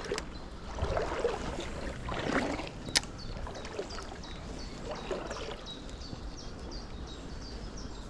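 River water sloshing and splashing, swelling up about a second in, again near two seconds and near five seconds, with one sharp click near three seconds. From about halfway a bird repeats a short high chirp about three times a second.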